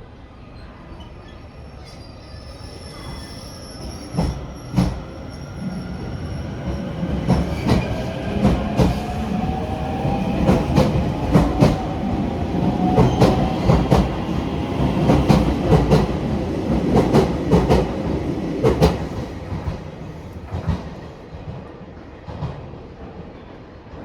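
A train passing close by, its wheels clicking over the rail joints in quickening pairs, with a thin tone that rises slowly in pitch. It grows louder toward the middle, then fades as it moves off.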